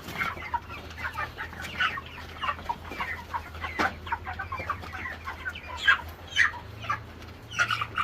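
A flock of chickens clucking and peeping, many short, overlapping calls, while they eat from a feeding pan.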